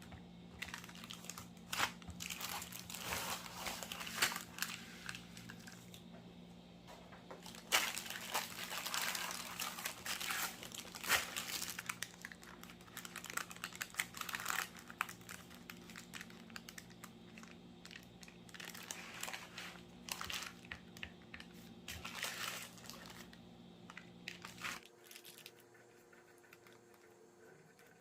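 Parchment paper crinkling and rustling in irregular bursts as it is handled, over a steady low hum that cuts off near the end.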